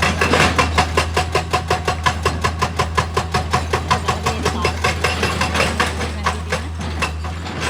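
A machine running with a steady low hum, overlaid by rapid, even knocking strikes, about five a second, that fade out near the end.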